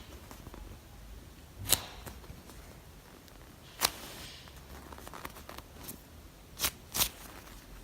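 Handling noise from squishy toys being held and squeezed: a few short, sharp clicks and light rustles, the last two close together near the end.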